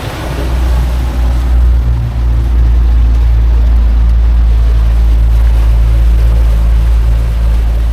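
New Mercury outboard motor running with the boat underway, in its final hour of break-in: a loud, steady low rumble that builds over the first couple of seconds and then holds even.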